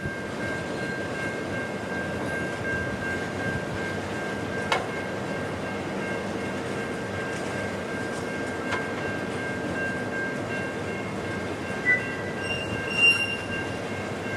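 Ore train cars rolling past on the rails with a steady rushing sound and a thin, steady wheel squeal. There are two sharp clanks, about five and nine seconds in, and brief louder squeals near the end.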